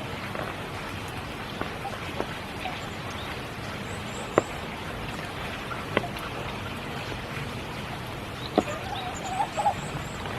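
Steady spring rain falling, with a few heavier single drips striking sharply. Near the end a frog gives a few short calls, and faint high chirps come and go.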